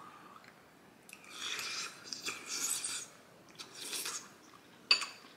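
A person chewing with open-mouthed smacking in several short bursts, then a single sharp click near the end.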